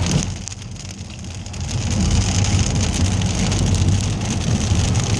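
Rain pattering on a car's body and windshield over the low rumble of the vehicle driving; the rain eases briefly about a second in, then picks back up.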